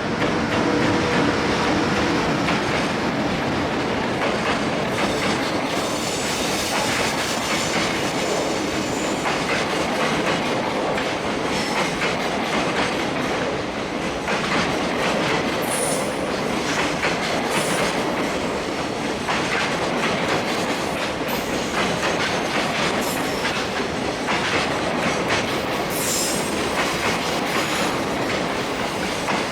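An EH500-hauled freight train passing close by, its wagon wheels clattering over the rail joints in a steady rush, with brief high wheel squeals about halfway through and again near the end.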